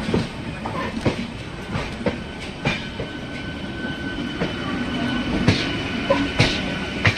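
MEMU electric multiple unit train passing close by as it pulls out, its wheels knocking over rail joints in an uneven clickety-clack over a steady rumble. A steady high whine joins in about three seconds in.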